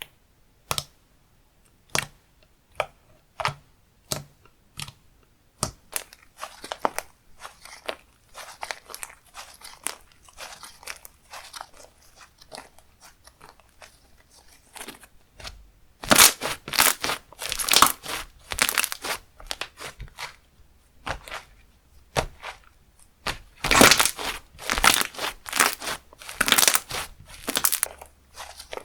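Slime being handled: sharp clicks and pops at first, then dense crackling and squishing as the slime is pressed, folded and stretched, loudest in two long stretches in the second half.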